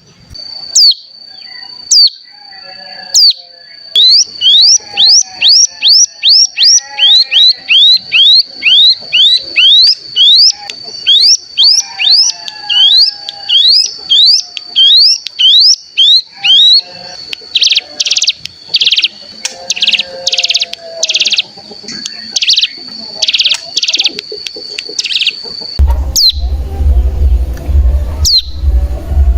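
Ciblek gunung (cigun) song: loud, quick, high chirps repeated steadily over a continuous high thin trill, then from about halfway a run of loud buzzy trilled phrases, the 'bren' that the recording is meant to provoke in other birds. Near the end a low hum comes in under a few scattered chirps.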